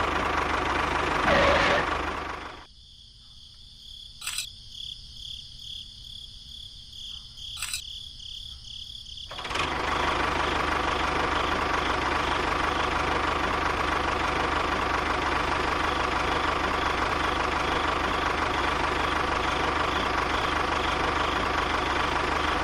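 Small engine of a homemade mini tractor cultivator running steadily. It drops out abruptly about three seconds in and comes back about seven seconds later.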